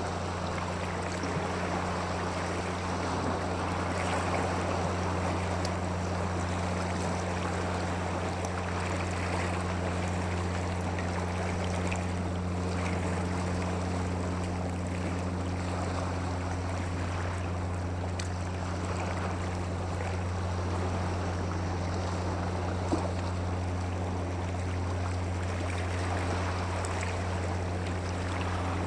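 Steady rushing water, with a constant low hum running underneath it.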